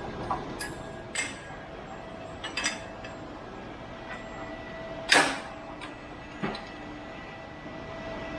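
Several short, sharp metallic clanks and knocks from exhaust work, the loudest about five seconds in, over a steady background hum with a faint whine.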